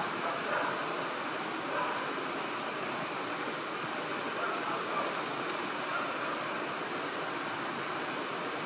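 Firewood burning in a wood-fired grill, with a few faint, scattered crackles over a steady rushing hiss.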